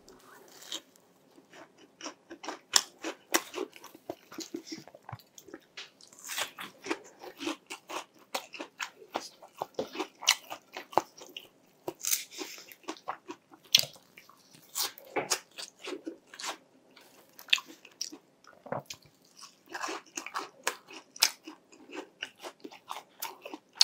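Close-up crunching and chewing of crispy fried food, a corn-cheese twisted doughnut and breaded chicken cutlet: irregular crackly crunches with short pauses between mouthfuls.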